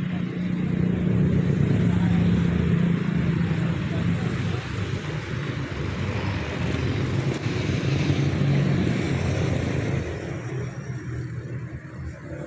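Street traffic: motor vehicle engines running close by, swelling as vehicles pass about two seconds in and again around eight seconds.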